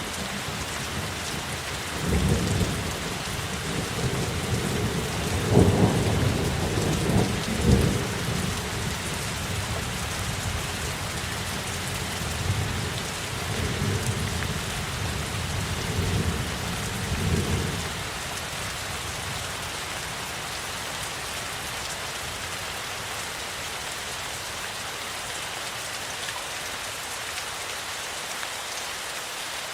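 Steady heavy rain falling, with rolling thunder rumbling through the first half. The thunder is loudest around six and eight seconds in and dies away about eighteen seconds in, leaving only the rain.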